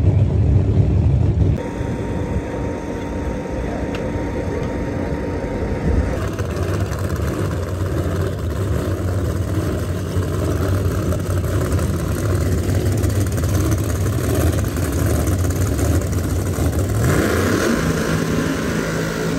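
Chevrolet Camaro drag car's engine running at a steady idle, revving up once near the end.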